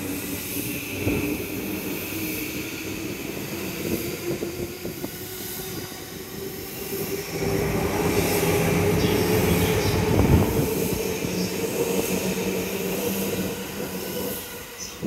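E235 series 1000 electric commuter train pulling out past the platform: steady hum from the traction motors over wheel clatter on the rails. It is loudest in the middle, with a sharp knock about ten seconds in, and fades near the end as the last car passes.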